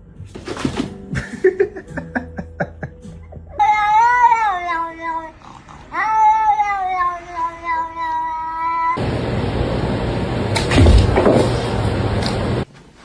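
Domestic cat giving two long, drawn-out yowls, the first wavering and the second held steady, after a few scattered knocks. These are followed by a few seconds of loud rushing noise that cuts off suddenly.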